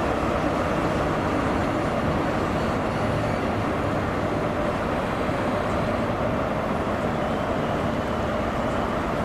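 A train at a station platform, running with a steady, even rumble and a faint steady hum.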